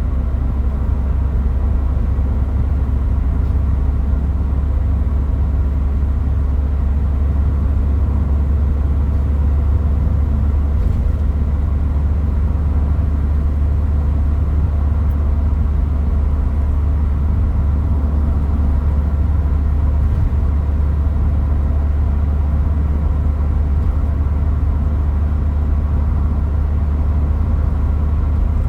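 Toyota Hilux Mighty-X pickup driving along, heard from inside the cab: a steady low engine drone with road rumble that holds even throughout, with no revving up or down.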